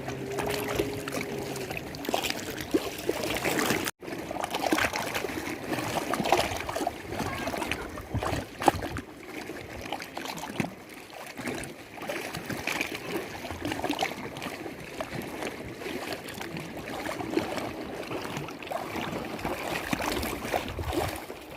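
Lake water lapping and sloshing at the shore in small irregular splashes, with a low steady hum in the first two seconds and a brief gap in the sound about four seconds in.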